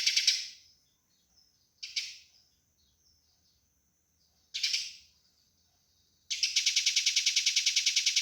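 Eurasian tree sparrows calling in a fight: a fast, harsh chatter of about eight notes a second breaks off, two short bursts come about two and a half seconds apart, then the rapid chatter resumes about six seconds in.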